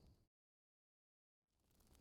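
Crackling campfire ambience with scattered sharp pops fades out about a quarter second in, leaving dead silence for about a second, then fades back in near the end, as at a loop or edit point in the soundtrack.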